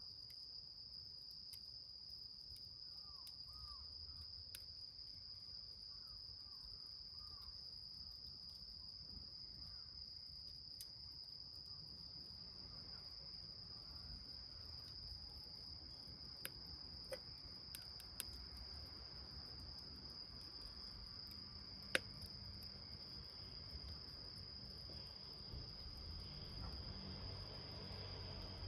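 A cricket's steady high-pitched trill runs on without a break, with a scatter of sharp crackles and pops from a small wood fire burning in a milk can, one much louder pop about two-thirds of the way through.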